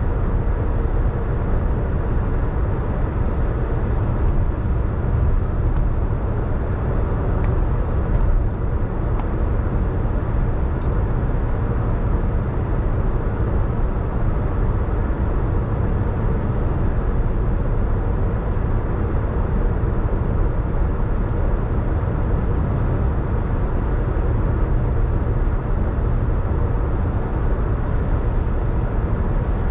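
A car driving on a rain-wet road: a steady low rumble of tyres and engine, with a few faint ticks.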